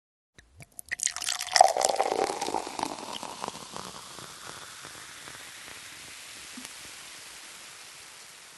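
Diet cola erupting from a bottle with Mentos dropped in: a burst of fizzing, spraying foam and splashing liquid that starts about a second in, peaks soon after and fades to a soft steady fizz.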